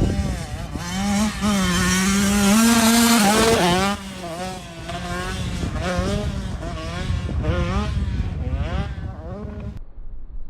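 Dirt bike engine running and revving, its pitch rising and falling with the throttle. It is loudest in the first few seconds and stops abruptly near the end.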